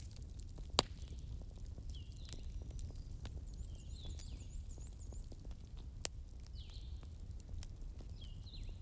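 Campfire burning with a low rumble and constant small crackles, broken by a sharp pop about a second in and another about six seconds in. Birds chirp in the background, short falling calls repeated every second or so, with a quick run of high notes near the middle.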